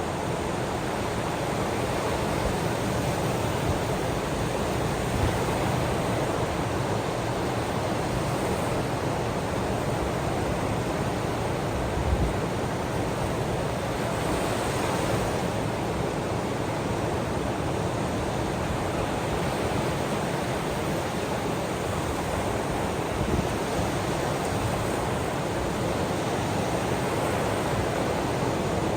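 Ocean waves washing on the shore: a steady rushing noise without break, swelling slightly about halfway through.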